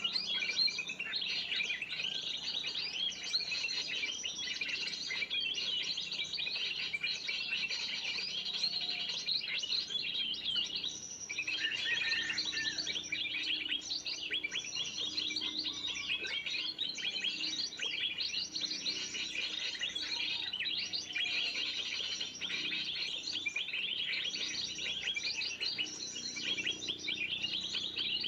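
A dense, unbroken chatter of many small birds chirping and twittering at once: a 'burung ribut' (noisy birds) lure call of the kind used to draw in spiderhunters. It thins briefly about eleven seconds in.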